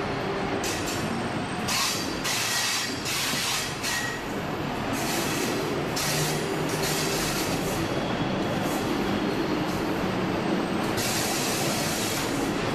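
Train running through a rock tunnel: a steady rumble of wheels on rails, with repeated bursts of high-pitched wheel squeal, the strongest near the end.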